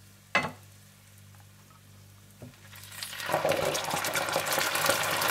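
A sharp knock about half a second in, then from about three seconds in a loud sizzle builds as yogurt goes into hot butter, oil and golden-fried onions in the pot.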